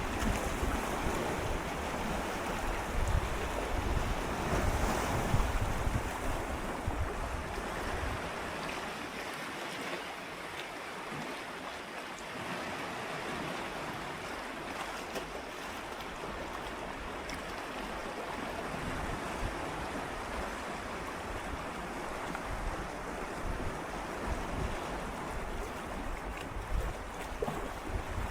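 Gentle sea waves swirling and lapping against shoreline rocks, a continuous wash of water that is fuller and louder in the first several seconds, then settles to a softer lapping, with a low rumble coming back near the end.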